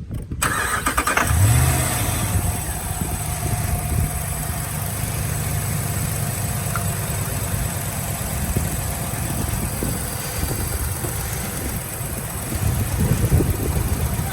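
Dodge Ram's Hemi V8 cranking and starting about half a second in, flaring up briefly, then settling into a steady idle, freshly repaired after a failed MDS lifter.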